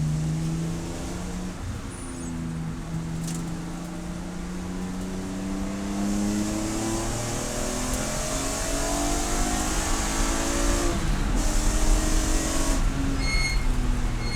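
Race car engine pulling hard, its pitch climbing steadily for about nine seconds and then dropping suddenly near the end. A high-pitched intermittent beep starts just before the end.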